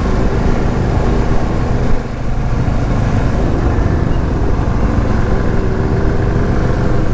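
Motorcycle engines idling steadily, started early while the riders wait in line.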